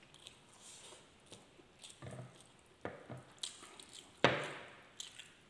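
Close-up wet mouth sounds of a man eating rice and milkfish sisig by hand: chewing with scattered lip smacks and clicks, and one louder smack about four seconds in.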